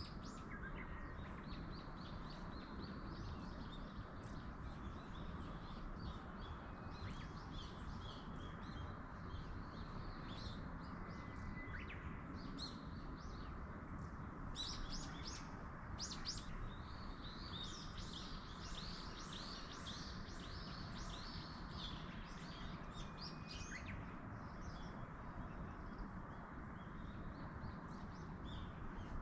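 Small wild birds chirping and trilling, busiest in the middle, over a steady rushing background.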